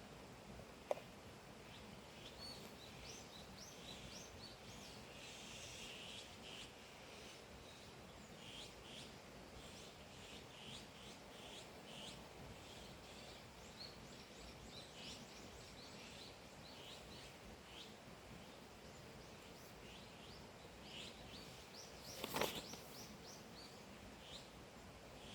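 Faint birds chirping: many short, high calls scattered throughout over a quiet background hiss. A single sharp click about a second in and a brief rustle near the end.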